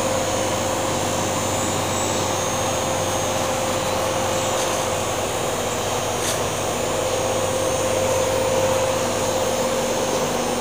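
A motor-driven fan running steadily, a constant whir with a steady hum.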